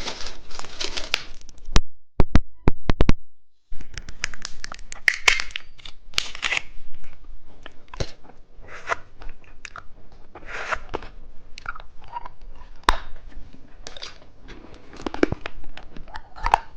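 Plastic candy wrapping being torn open and crinkled by hand: a steady run of irregular crackles and rustles, with a few sharp clicks and a brief gap about two to three seconds in.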